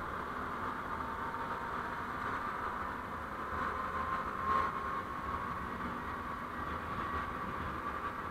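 Steady road and vehicle running noise picked up by a dashcam's microphone, with a brief louder swell about four and a half seconds in.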